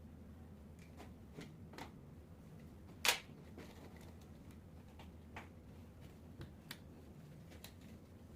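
Light clicks and taps of metal parts and tools being handled during alternator repair work, with one sharp, louder knock about three seconds in.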